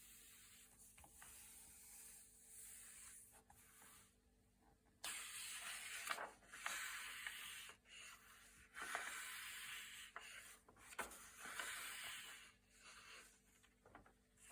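Thick, glossy paper pages being turned and smoothed by hand: soft rubbing swishes with small crisp snaps as each page flips, louder from about five seconds in.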